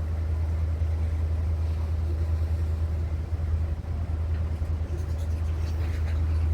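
Steady low rumble of a train's diesel engine.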